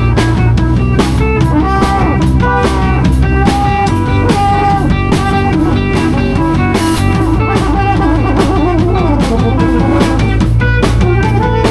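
A band improvising live: guitar lines over a drum kit keeping a steady beat, with a heavy low end.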